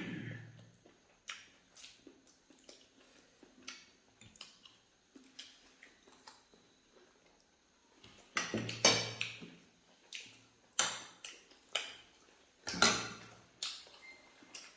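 Eating at the table: scattered light clicks and taps of dishes and utensils, with a run of louder clatters about 8 to 13 seconds in.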